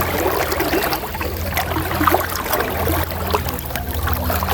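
River water running and splashing in a steady rush, with irregular gurgles over a low rumble.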